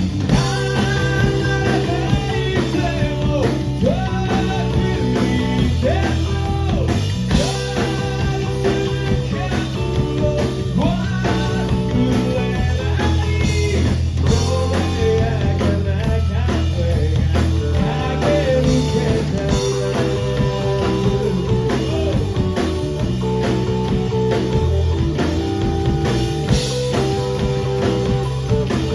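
Rock band playing live: electric guitar over bass and drums, continuous and loud.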